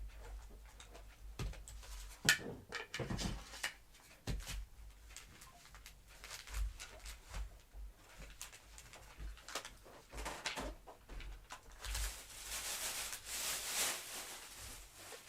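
Scattered clicks and knocks of hands working on plastic parts of a vacuum cleaner's rotating brush head, with a longer rustling, scraping stretch about twelve seconds in.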